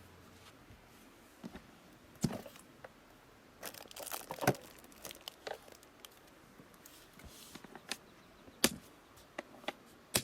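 Intermittent handling noises: a series of sharp clicks and knocks with short spells of crinkling and rustling, as if things are being unwrapped or moved about by hand.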